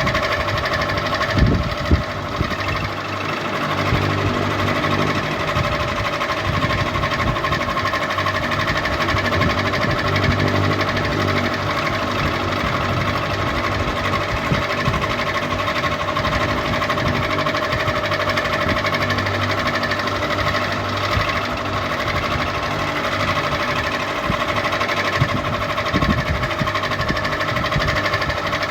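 Ceiling fan running steadily: a constant hum with a fast low rattling clatter underneath.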